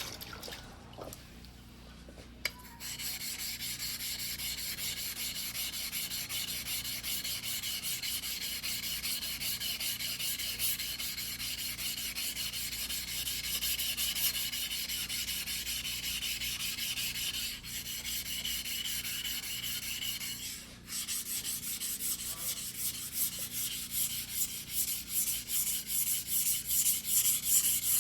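A white-steel fuguhiki sashimi knife blade is ground by hand on a wet whetstone, making a steady scraping from about two and a half seconds in. In the last several seconds it changes to louder, distinct back-and-forth strokes, several a second. The broken knife is being reshaped.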